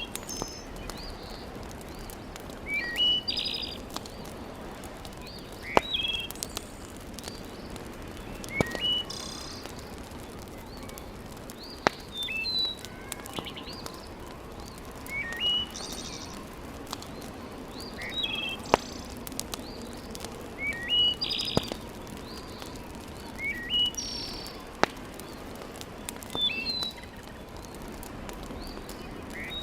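A bird calling a short chirping phrase over and over, about every three seconds, with a sharp click at the start of most phrases, over a steady background hiss.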